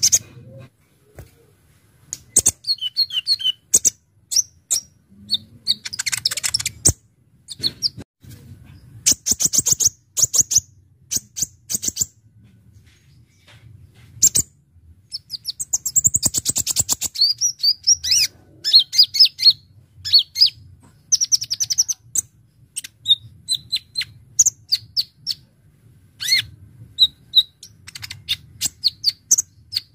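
A kolibri ninja (Konin) sunbird singing: sharp high chips and whistled notes in quick bursts, broken by fast rattling trills, the longest about six, ten and seventeen seconds in.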